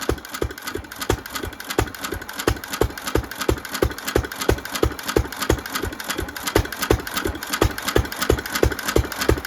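1917 Fairbanks 3 HP throttle-governed stationary engine running steadily, firing at an even beat of about three pulses a second. It is on its first run with its restored original carburettor, its new rings and valve train still breaking in.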